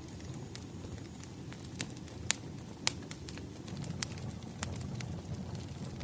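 Wood fire crackling: irregular sharp pops and snaps over a steady low rumble, with two louder pops a little past the middle.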